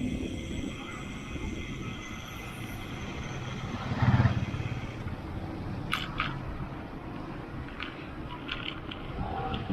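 Wind rumbling over the microphone during a bicycle ride. There is a brief louder swell about four seconds in, and a few light clicks or rattles later on.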